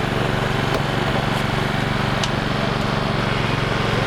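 Motor vehicle engine idling with a steady, even drone, and a few faint ticks over it.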